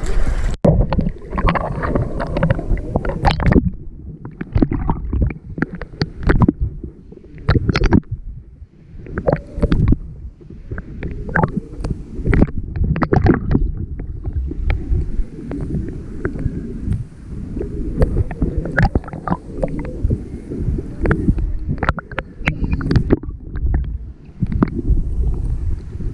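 Muffled water sloshing and gurgling in uneven surges, with many scattered knocks.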